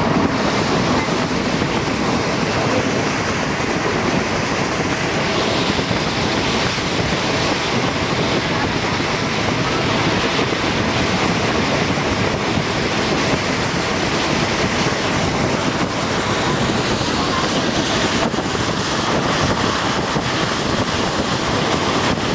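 A moving train: the steady, unbroken running noise of its wheels on the rails.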